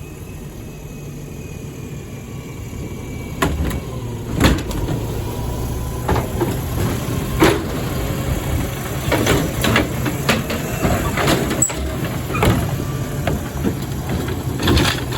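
Garbage truck engine running steadily, with a series of sharp knocks and clatter from the recycling pickup starting about three and a half seconds in.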